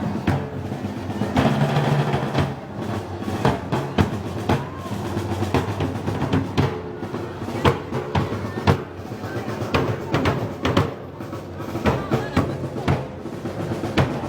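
Live festival band music with snare and bass drums to the fore, including drum rolls.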